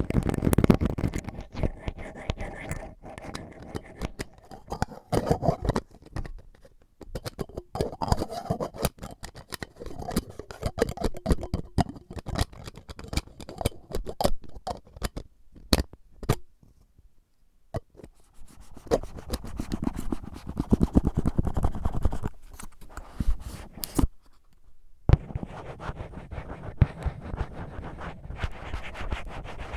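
Close-miked ASMR scratching and tapping, first on a melon ball, then, after a short pause, on an earphone case.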